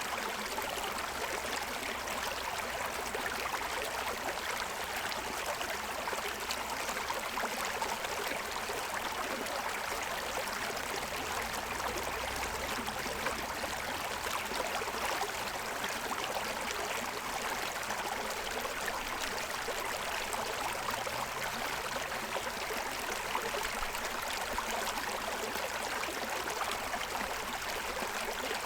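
Shallow stream running steadily over the stones of its bed, a continuous rushing and splashing with no breaks.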